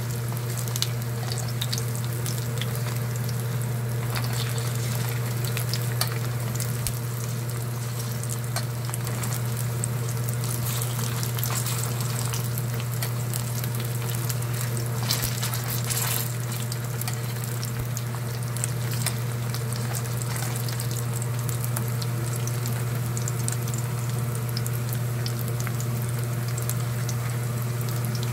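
Battered pork pieces for guobaorou shallow-frying in hot oil in a stainless steel pan: a steady sizzle full of fine crackles and pops. A steady low hum runs underneath.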